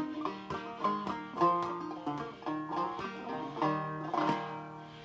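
An 1895 Cole 3000 'Man in the Moon' banjo picked in a quick run of single notes. It ends on a chord about four seconds in that rings and fades away. The banjo is tuned well below standard pitch.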